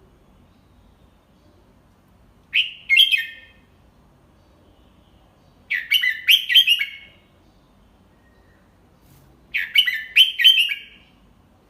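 Red-whiskered bulbul singing its tutor song: three short, quick warbled phrases a few seconds apart, the first a little shorter than the other two.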